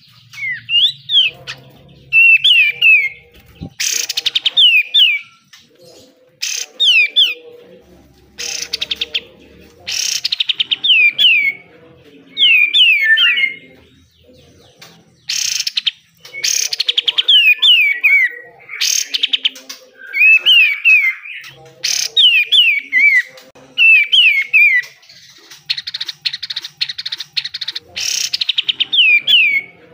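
Olive-winged bulbul (kapas tembak) singing: short phrases of quick falling whistled notes repeated every second or two, broken by harsh rattling bursts, the 'besetan'. The longest rattle comes near the end.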